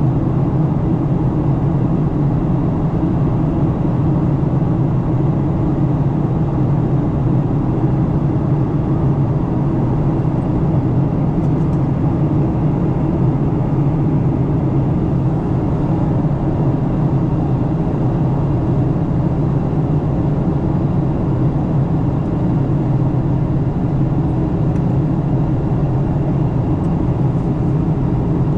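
Steady cabin drone inside a Boeing 737-900 during descent: its CFM56-7B engines and the rush of air over the fuselage make an even, low rumble, without change.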